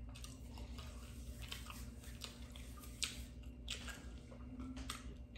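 Close-up mouth sounds of a person chewing a big mouthful of food, with wet smacks and small clicks, a few louder ones about three seconds in, over a steady low hum.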